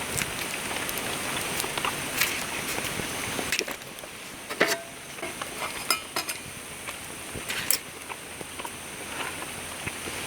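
Metal cookware or utensils clinking and knocking now and then over a steady crackling hiss, with a few louder knocks in the middle.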